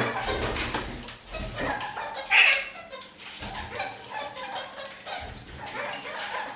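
Red-crowned kakariki parakeets chattering in short, chirpy calls, with one louder call about two and a half seconds in.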